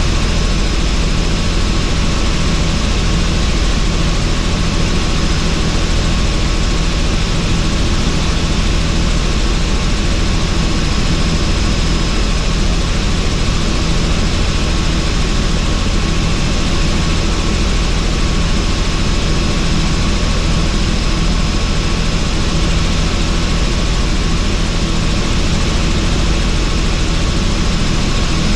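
Helicopter in flight, heard from inside the cabin with the doors off: a loud, steady rotor and engine drone with a thin high whine on top and wind noise through the open cabin.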